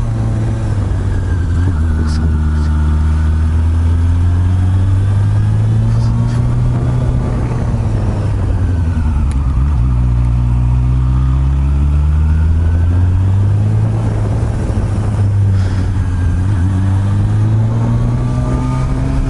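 Honda CB400 Super Bol d'Or NC42's inline-four engine running through an aftermarket r's gear exhaust under way, its pitch sinking and climbing with throttle. The revs dip sharply about ten seconds in, then climb steadily again. Wind rush on the microphone underneath.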